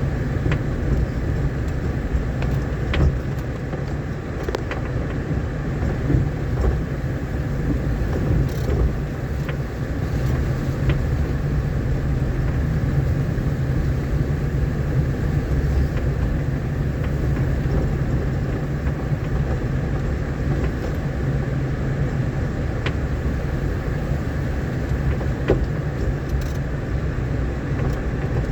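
A vehicle driving along a rough, rain-damaged dirt road: a steady low rumble of engine and tyres, with a few short clicks and knocks scattered through it.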